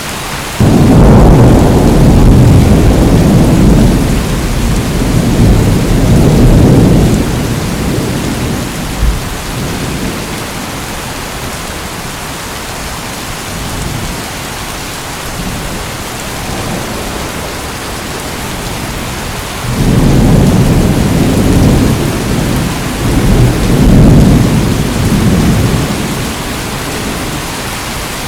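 Steady heavy rain with two rolls of thunder over it: the first breaks in abruptly about a second in and rumbles for some six seconds, the second rolls in about twenty seconds in and lasts about as long.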